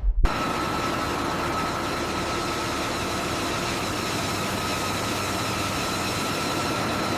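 A machine running steadily, an even mechanical noise with a high steady whine through it, cutting in abruptly right at the start.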